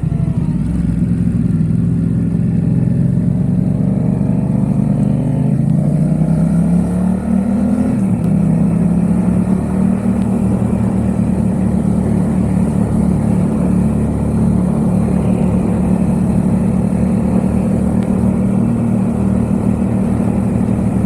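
Yamaha XSR700's parallel-twin engine running through a MiVV aftermarket exhaust while riding, rising in pitch as it pulls through the revs for the first several seconds, then holding a steady cruise.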